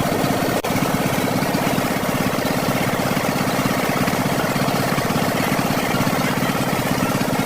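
An engine idling steadily with a fast, even beat, interrupted by a very brief break about half a second in.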